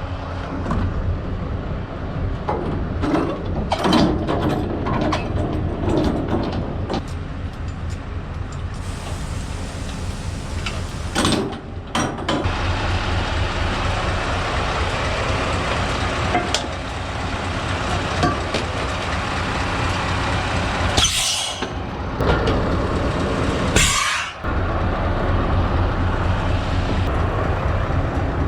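Scania S650's V8 diesel engine running steadily at low revs, with some knocks early on. Near the end come two short, sharp hisses of compressed air from the truck's air brakes, a few seconds apart.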